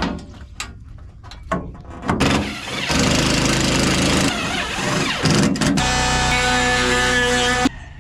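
A power tool starts about two seconds in and runs steadily and loudly. Over the last two seconds a steady whine rides on top, and it cuts off suddenly near the end.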